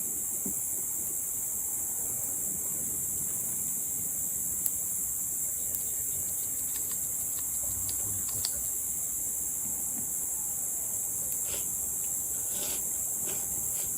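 Steady high-pitched chorus of crickets, unbroken throughout, with a few faint clicks and taps here and there.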